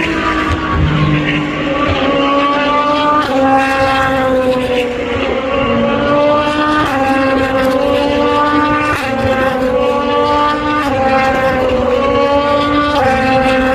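Race car engines at full racing speed, loud and continuous, their pitch jumping up sharply about every two seconds and then sliding down, again and again.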